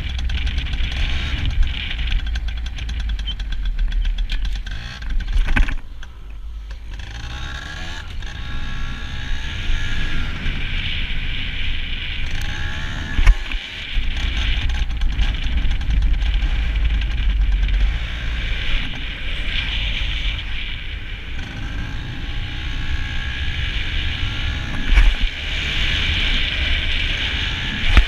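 Yamaha PW80's small two-stroke single-cylinder engine revving up and down while being ridden, with wind buffeting the microphone. Two sharp knocks stand out, about halfway through and near the end.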